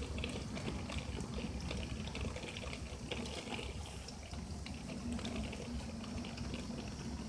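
Torrential rain coming down hard, a steady hiss full of small spattering ticks, heard through a window.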